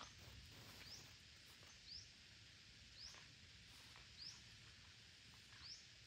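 A bird gives a short rising chirp about once a second, faint over a steady background hiss.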